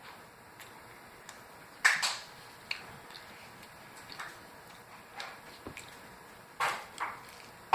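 Irregular knocks and clatters of objects being handled, with the loudest about two seconds in and a pair near the end.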